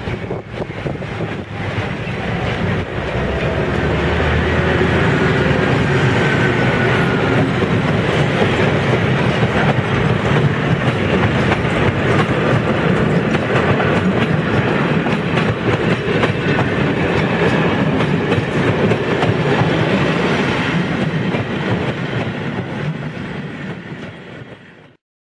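A MÁV M62 'Szergej' diesel locomotive passes close by, hauling a train of vintage passenger coaches, with the wheels clattering over the rail joints. The sound swells over the first few seconds as the locomotive draws level, stays loud and steady as the coaches roll past, then fades and cuts off abruptly near the end.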